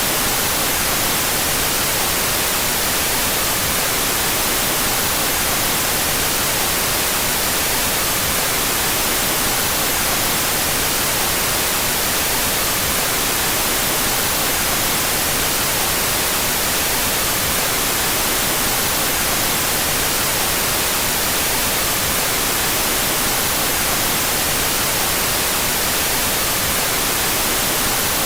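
Steady electronic white noise, an even hiss with no variation, played out of phase between the stereo channels.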